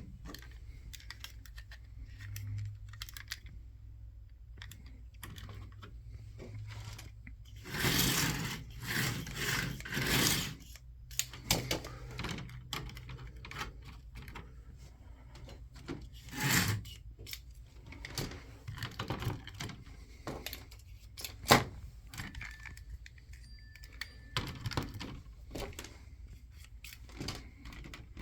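Carrera Digital 143 slot cars running on plastic track: light clicking and rattling over a low steady hum. The noise swells in rushing bursts now and then, and one sharp knock comes about two-thirds of the way through.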